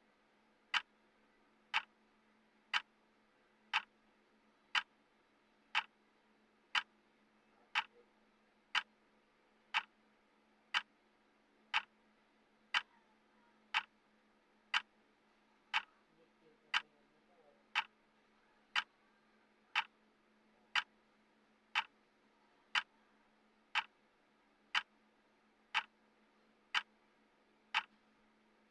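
Clock tick sound of a countdown timer: one sharp tick every second, evenly spaced, over a faint steady low hum.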